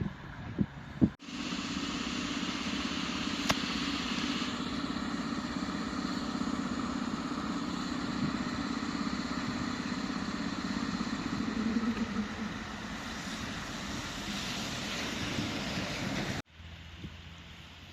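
ET41 electric locomotive giving a steady hum with higher whining tones over it. The hum begins about a second in and cuts off suddenly near the end.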